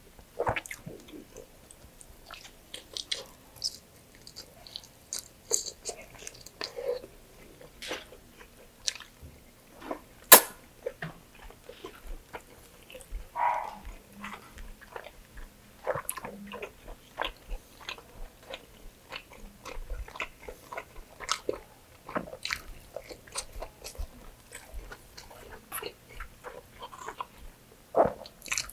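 Close-miked mukbang eating of fatty pork belly adobo and rice by hand: irregular wet chewing, biting and lip-smacking clicks, with one sharp loud click about ten seconds in.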